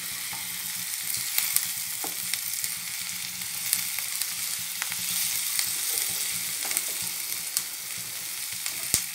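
Chopped onions, ginger, garlic and green chilli sizzling in mustard oil in a nonstick frying pan while a wooden spatula stirs them. A steady hiss is broken by scattered sharp pops and scrapes, over a faint low hum.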